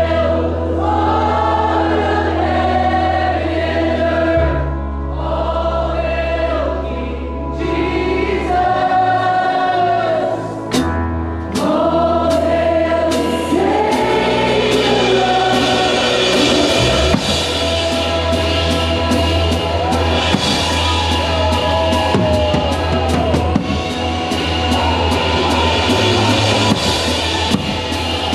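Live worship band with a group of singers over sustained bass and keys; about halfway through, the drum kit comes in with cymbals and a steady beat under the singing.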